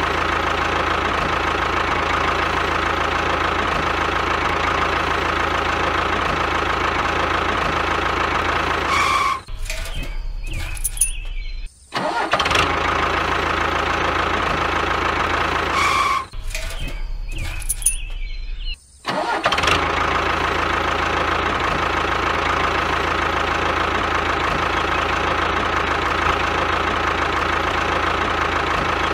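Tractor engine sound effect running steadily, a repeating loop: twice, about seven seconds apart, it drops into a quieter stretch of a couple of seconds that ends in a brief cut-out before the steady running picks up again.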